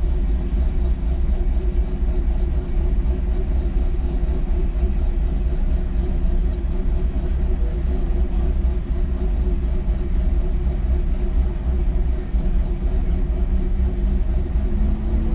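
Car engine running at a steady, unchanging speed over a heavy low rumble.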